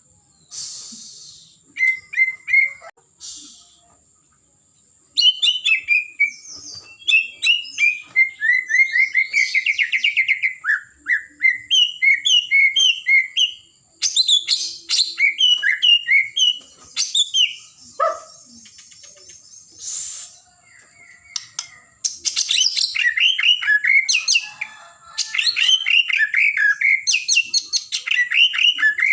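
White-rumped shama singing a long, varied song of rapid whistled and trilled phrases, in bursts of a few seconds with short pauses between them. A thin steady high tone runs underneath.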